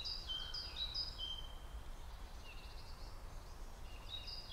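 A songbird singing a repeated phrase of short, high whistled notes stepping between pitches, pausing after about a second and a half and starting again near the end, over a steady low background rumble.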